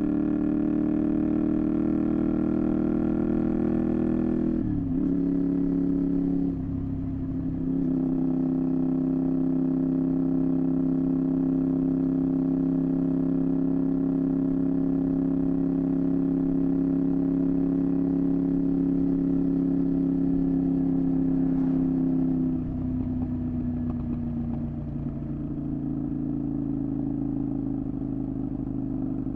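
Honda VTR250's 90-degree V-twin engine running through a Moriwaki exhaust while riding. The note dips briefly about five and seven seconds in, holds steady for a long stretch, then drops lower about three quarters of the way through.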